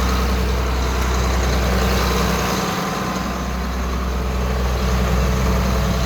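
Tractor engine running steadily, driving a round baler in hay.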